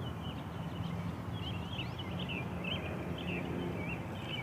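Small birds chirping and twittering continuously, many quick, short calls over a steady low background rumble.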